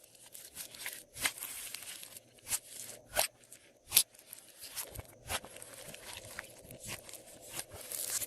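Glossy slime being worked by hand: irregular sticky clicks and pops with a soft crackly hiss between them.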